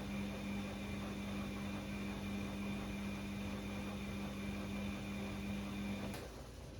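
Bosch Classixx 6 washing machine turning its drum during the hot wash, a steady motor hum with a tone that cuts off with a click about six seconds in, as the drum stops between turns.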